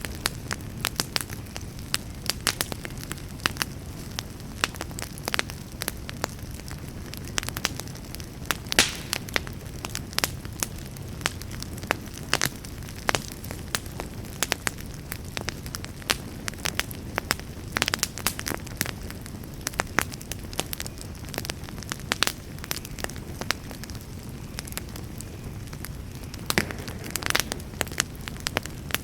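Campfire crackling: irregular sharp pops and snaps, some louder than others, over a steady low background noise.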